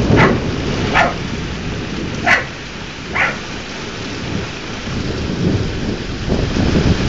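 Thunderstorm: steady rain with low thunder rumbling, dying down over the first couple of seconds and swelling again in the last two. Four short sharp calls ring out over the rain in the first three seconds or so.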